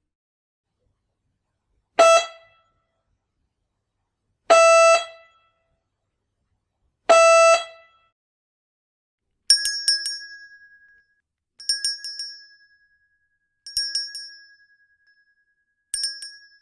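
Doorbells ringing in two different styles. First come three short, steady, horn-like tones about two and a half seconds apart. Then come four bursts of rapid bell strikes about two seconds apart, each ringing on briefly after the strikes.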